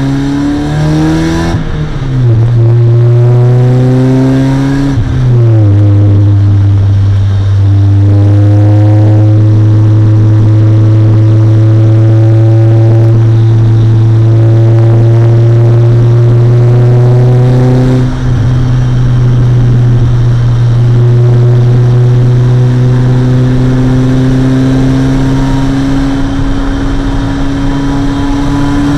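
Mazda MX-5's 1.6-litre inline-four engine at full throttle, heard from inside the car. The pitch climbs steadily through long pulls and drops suddenly at three upshifts: shortly after the start, about five seconds in, and about two-thirds of the way through.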